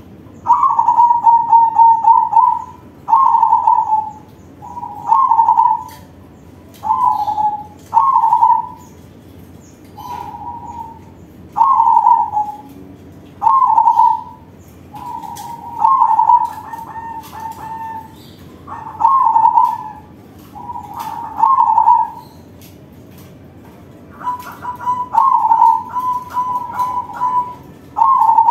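Crossbred zebra dove (perkutut crossing) cock singing in a loud voice: a cooing phrase about a second long, repeated roughly every two seconds, with a few longer stuttering phrases near the end.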